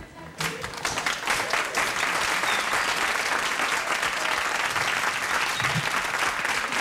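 Studio audience applauding and cheering at the end of a song. It swells over the first second, then holds steady.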